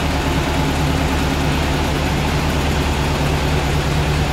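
Air-cooled flat-four engine of a 1974 Volkswagen Thing idling steadily.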